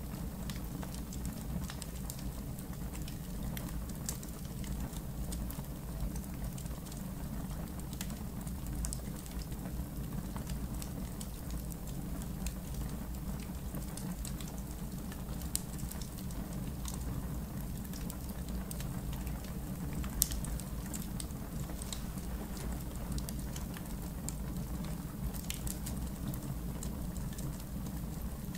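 Campfire in a fire pit crackling: a steady low rumble of burning under scattered small crackles, with two sharper pops a little past halfway.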